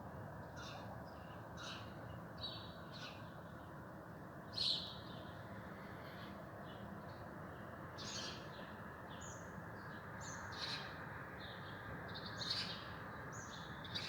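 Several small birds chirping back and forth in short, scattered calls, with one louder call about a third of the way in, over a steady low background hiss.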